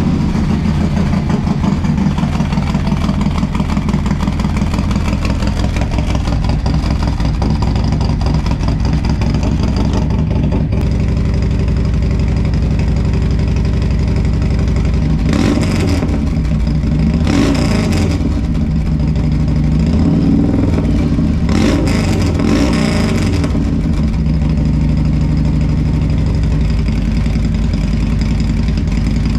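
Harley-Davidson Road Glide's Milwaukee-Eight 107 V-twin, fitted with a Wood cam, running through a Bassani Road Rage III 2-into-1 exhaust just after start-up, idling steadily with a few short throttle blips in the second half.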